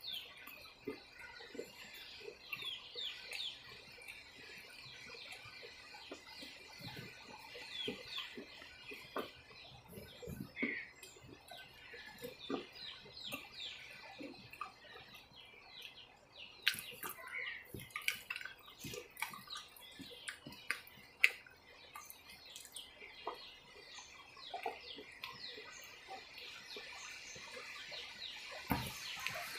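Quiet chewing close to the microphone with occasional sharp mouth clicks, the loudest about 17 and 21 seconds in. Birds call in the background throughout in short high chirps.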